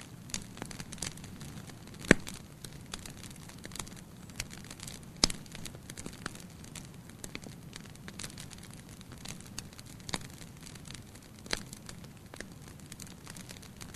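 Wood fire burning in a fireplace: the flames give a low rumble, with frequent irregular crackles and pops, two of them sharp and loud.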